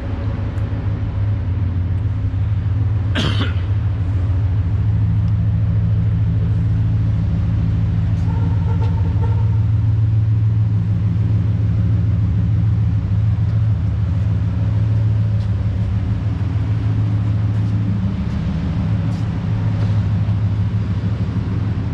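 Steady low mechanical rumble with a pulsing hum throughout, and one brief sharp sound about three seconds in.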